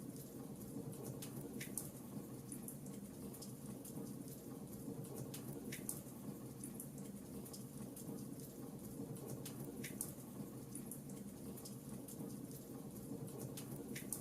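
Wood fire crackling in a fireplace: a steady low hiss of flame with irregular small crackles throughout, and a few sharper pops spaced several seconds apart.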